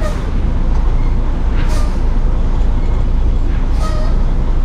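Semi truck's diesel engine running with a steady low rumble, with two brief higher-pitched noises about a second and a half and nearly four seconds in.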